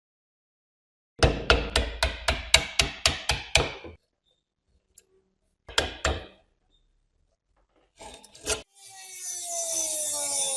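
A quick run of about a dozen sharp hammer-like taps on metal, roughly four a second, then two more taps a couple of seconds later and a few clicks. Near the end a steady sound with falling tones comes in.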